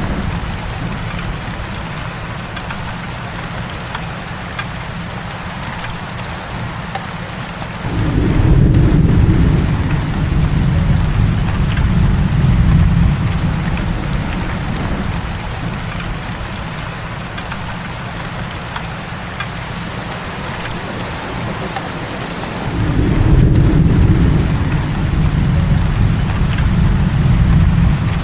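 Heavy rain falling steadily, with a low roll of thunder about eight seconds in and another near the end, each starting suddenly and rumbling away over several seconds.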